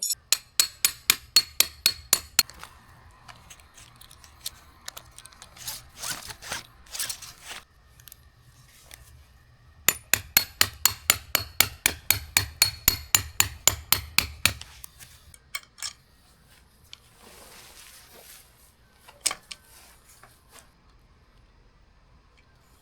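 Tent pegs being hammered in, struck in quick runs of about five blows a second, twice, with a few single knocks between.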